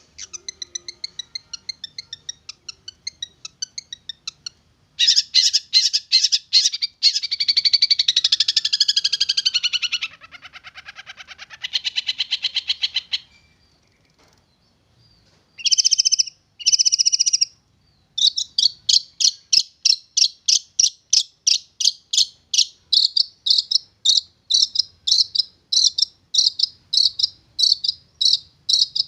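Young long-tailed shrike (cendet) singing: fast ticking and varied chattering phrases, two short harsh bursts past the middle, then a steady run of repeated harsh notes, about two or three a second.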